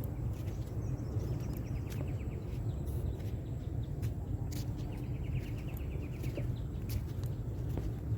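Outdoor ambience with a steady low rumble and scattered small clicks, over which a small bird gives a short rapid trill about a second and a half in and again about five seconds in.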